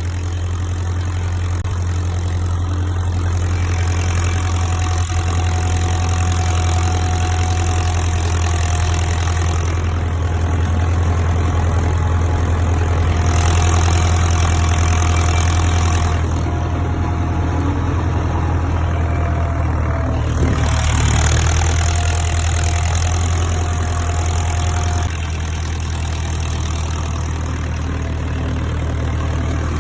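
A farm tractor's diesel engine runs steadily under load while pulling a plough, making a low, even drone that eases slightly near the end.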